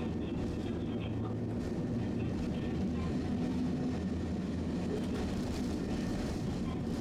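Tosaden streetcar running along its track: a steady low rumble with a low hum.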